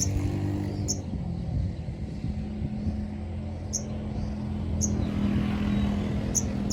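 A motor vehicle's engine runs steadily as a low drone, while a small bird gives four short, very high chirps, spaced a second or more apart.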